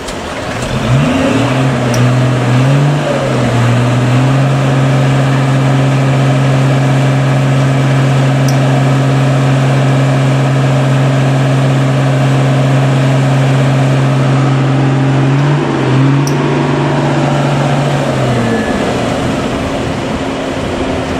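Truck engine revved up and held at high revs, its steady drone wavering at first, dipping briefly, then falling back to a lower note near the end.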